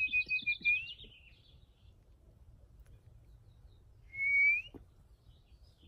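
A person whistling to backyard birds, with the birds chirping back: a held whistle ends with an upward lift about a second in, and a short rising whistle comes about four seconds in, with small bird chirps around them.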